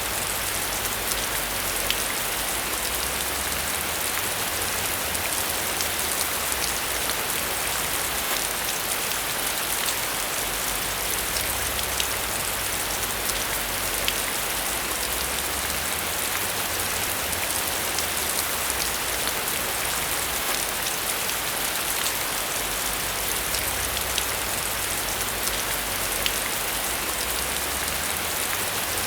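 Steady, even rain falling on a surface, with individual drops ticking here and there through the constant patter.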